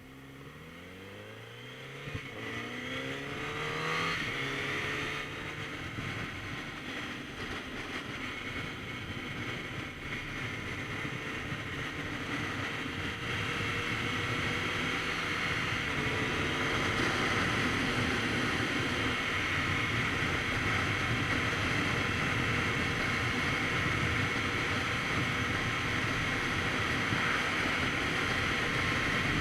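Kawasaki Z900RS Cafe's inline-four engine pulling away, rising in pitch through several gear changes in the first few seconds. Then comes a steady rush of wind noise at riding speed, which grows louder about halfway through and covers the engine.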